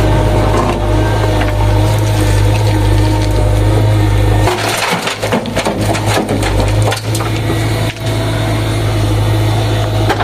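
JCB backhoe loader's diesel engine running steadily, with a burst of crunching and cracking for about two seconds near the middle as it digs, after which the engine comes back up.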